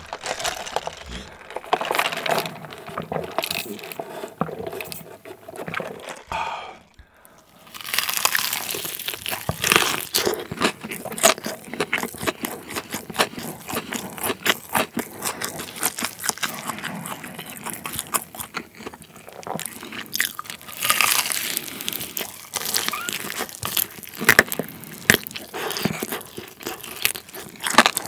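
Close-miked crunching and chewing of a crispy fried chicken drumstick's batter coating: many sharp crackles in quick succession, with a brief quiet pause about seven seconds in.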